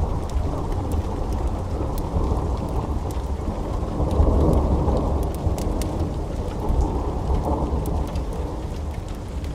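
Steady rain with a deep rolling rumble of thunder that swells about four seconds in and slowly fades. Faint scattered crackles from a fireplace sit on top.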